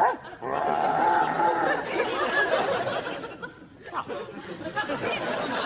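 Several voices chattering and laughing together, with a brief lull a little past the middle.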